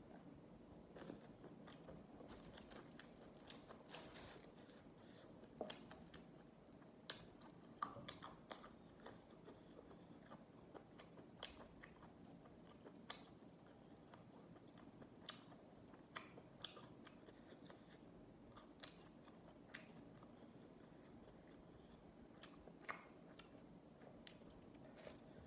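A person biting and chewing crunchy raw vegetables close to the microphone: quiet, continuous chewing broken by irregular sharp crunches.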